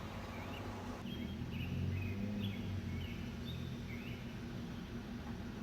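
Small birds chirping, short calls repeating about twice a second, over a steady low hum.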